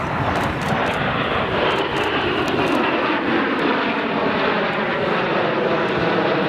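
Red Arrows BAE Hawk T1 jet trainers flying past in the shuttle roll, their turbofan engines giving a loud, steady jet roar. The pitch falls slowly as they pass.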